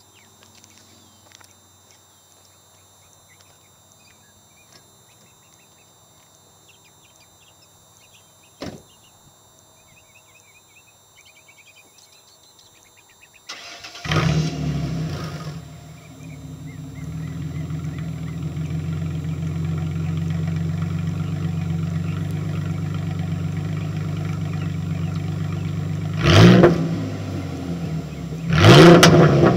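Ford Mustang (2005) with a divorced dual exhaust, Flowmaster 40 Series mufflers and dual exhaust cutouts, started about halfway through. It catches with a loud burst, settles into a steady deep idle, then is blipped twice near the end. Before the start there is only faint background with a few chirps and a single click.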